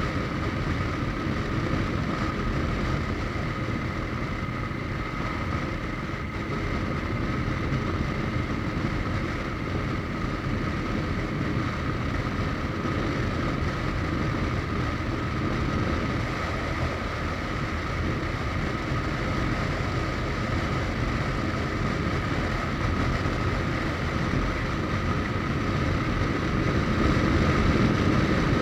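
Suzuki GSX1250FA motorcycle's inline-four engine running steadily at cruising speed, with wind rushing over the microphone. A steady high tone runs through it, and the sound grows a little louder near the end.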